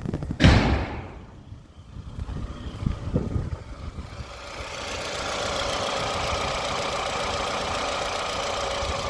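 Toyota 2AZ-FE 2.4-litre four-cylinder engine running in a used Toyota Estima under test. A loud thump comes about half a second in and a few lighter knocks around three seconds. The engine then rises from about four seconds and holds steady at raised mid revs, running evenly.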